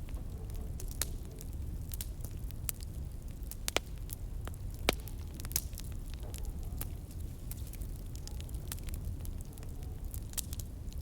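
Wood fire burning in a fireplace: a steady low rumble of flames with scattered sharp crackles and pops, the loudest pops about four and five seconds in.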